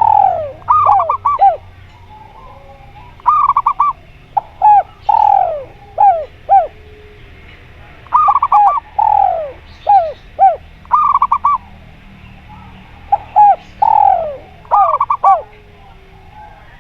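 Zebra dove and spotted dove cooing in bouts: quick groups of short, clear notes alternating with longer down-slurred coos, with short pauses between phrases.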